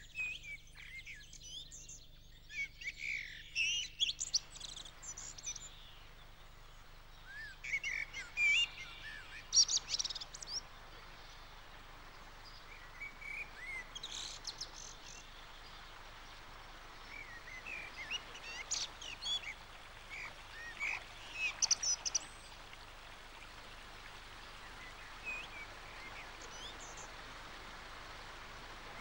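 Several songbirds singing outdoors, clusters of short chirps that glide up and down in pitch, coming and going every few seconds over a steady soft hiss of background noise.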